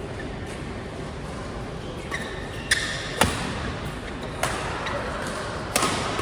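Four sharp hits, two close together about halfway through and two more later, with short high squeaks in between.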